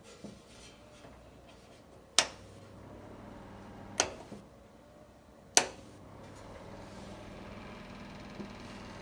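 Three sharp clicks of an electric fan heater's side switches, about two seconds apart. After them the heater's fan comes on with a steady electric hum that grows a little fuller after each click.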